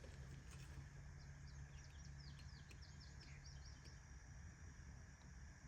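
Faint birdsong: a quick run of short, falling chirps lasting a couple of seconds, over a low steady background rumble.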